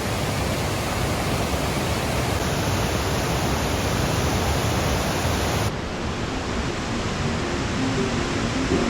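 Horsetail Falls' cascading water, a loud, steady rush with no break; the highest hiss drops away about two-thirds through, where the shot changes.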